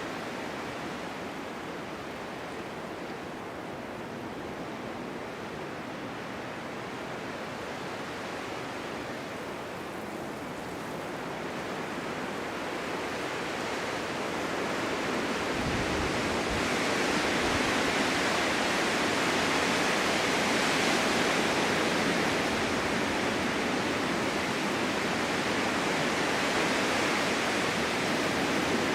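Winter wind blowing steadily through a forest, a rushing hiss that builds into a stronger gust about halfway through and stays strong.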